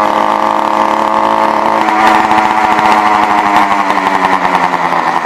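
A motorized bicycle's small kit engine running under way. It holds a steady note, then about two seconds in it revs harder with a rough, rapid pulsing, easing off near the end.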